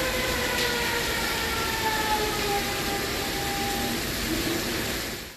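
Electric commuter train's traction motors whining as it slows, several tones gliding slowly downward over a steady rumble of running noise. The sound cuts off suddenly at the very end.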